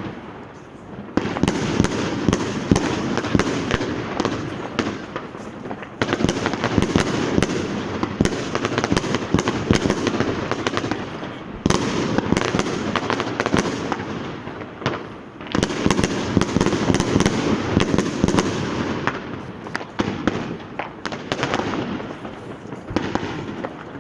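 Street fireworks and firecrackers going off in dense, rapid crackling volleys. A fresh volley starts suddenly four times and thins out over the next few seconds.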